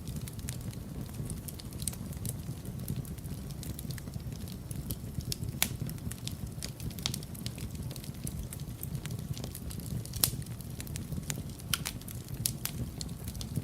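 Wood fire burning in a fireplace: a low steady rumble of flames with irregular sharp crackles and pops, two louder pops about five and a half and ten seconds in.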